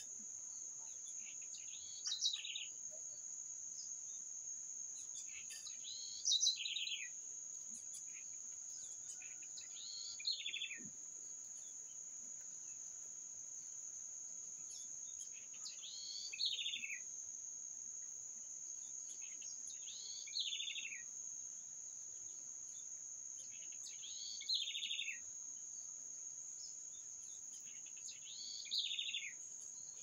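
A bird repeating a short song phrase of quick notes that falls in pitch, seven times at intervals of about four seconds. Under it runs a steady high-pitched insect drone.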